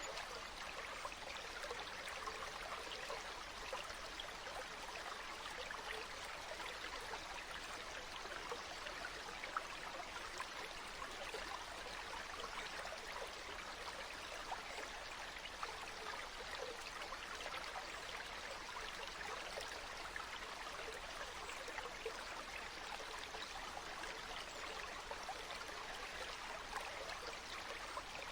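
Flowing water of a stream, a steady even babbling with fine splashing and trickling.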